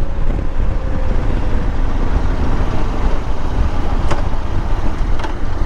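Motorcycle riding noise: the engine running under steady wind rumble on the rider's microphone, with a couple of brief clicks near the end.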